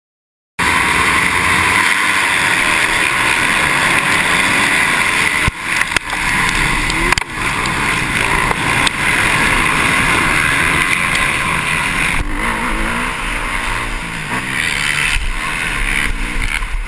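Motocross bikes' engines running hard, cutting in suddenly about half a second in, then a loud continuous engine sound whose pitch rises and falls as the riders rev and shift.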